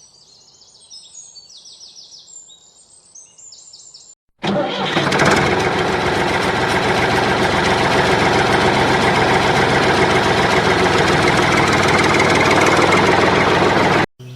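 Faint high-pitched tones for about four seconds, then, after a brief cut, an engine running loud and steady that cuts off just before the end.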